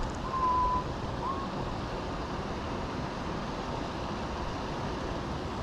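Steady rushing noise of flowing creek water, with two faint short whistled notes in the first second and a half.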